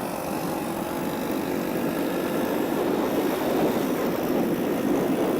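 1985 Suzuki SP250 motorcycle's single-cylinder four-stroke engine running steadily while the bike is ridden at cruising pace.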